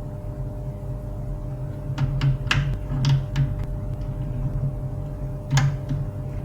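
HP LaserJet 401 printer running with a steady low hum, with a few clicks and scraping rattles about two to three and a half seconds in and one more near the end.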